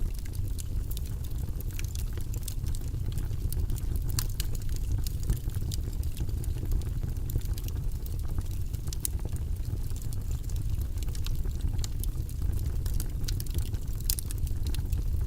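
Log fire burning in a fireplace: a steady low rumble of flames with frequent sharp crackles and pops scattered throughout.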